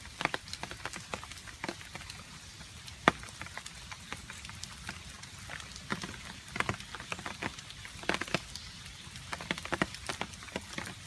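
Rain with water drops dripping irregularly onto a surface, each drop a short sharp tap; the loudest lands about three seconds in.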